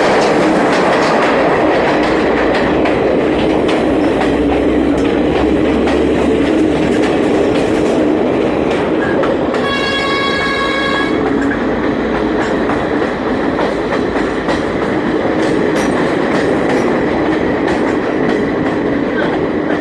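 Train running along the track, wheels clattering over the rail joints with a steady rumble. About ten seconds in, the train's horn sounds once for about a second and a half.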